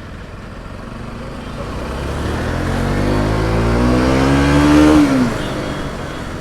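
Motorcycle engine accelerating, its pitch and loudness climbing steadily for about four seconds, then dropping off sharply as the throttle is closed near the end.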